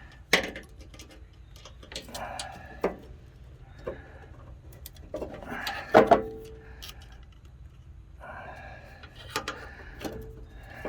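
Scattered metal clicks and clinks of hand tools and snowblower parts being handled, with rustling between them; the sharpest knock comes about six seconds in.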